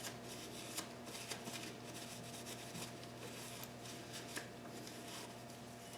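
Faint rustling and a few small clicks of hands handling parts, over a steady low electrical hum.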